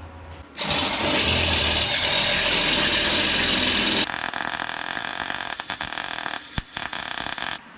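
A power tool working on the steel exhaust pipe, most likely preparing or fitting an O2 sensor bung. It runs loudly for about seven seconds, changes tone about four seconds in, and cuts off suddenly near the end.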